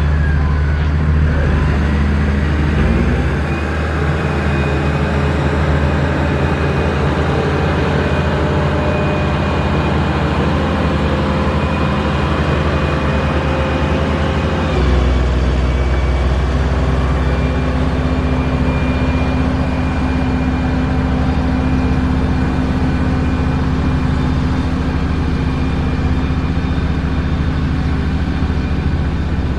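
Heavy diesel construction machinery running steadily at work, with a low engine drone. The engine note shifts about halfway through.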